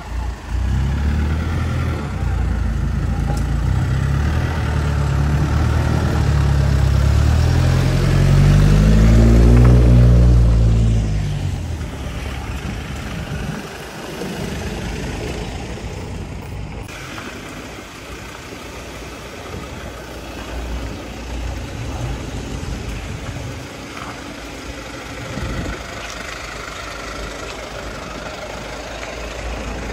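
A vehicle's engine close by, growing louder for about ten seconds with its pitch rising and then falling as it drives past, then fading to a quieter, steady engine rumble.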